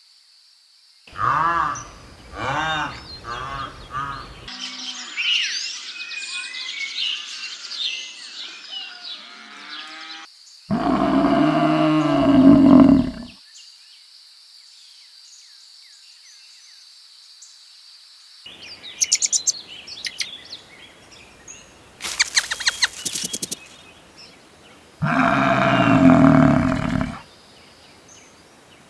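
A run of different animal calls: a few repeated pitched calls, then a long stretch of high bird twittering, and two loud, deep drawn-out calls, one near the middle and one near the end, with scattered chirps and a quick burst of clicks between them.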